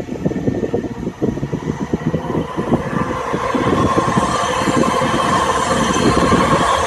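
Jet engines of a Boeing 737 MAX 8, CFM LEAP-1B turbofans, at takeoff power: a loud, crackling rumble with a higher whine that builds about three seconds in.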